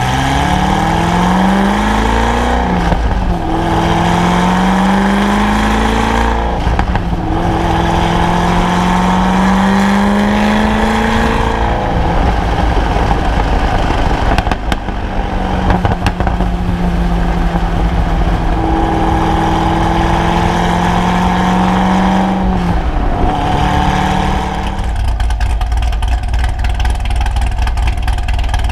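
Supercharged LS7 427 V8 in a C6 Corvette Z06, heard through a Corsa exhaust, pulling hard through the gears. The engine's pitch climbs and drops at each upshift three times in the first dozen seconds. After a steadier stretch and one more shift, it eases off near the end.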